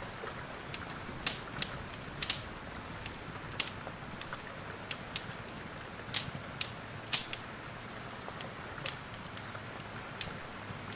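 Fireplace wood fire crackling, with sharp irregular pops, over a steady hiss of rain.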